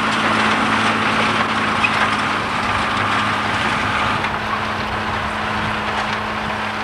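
John Deere 3350 tractor's six-cylinder turbo diesel running steadily under ploughing load, its note holding a constant pitch, with a broad rushing noise over it.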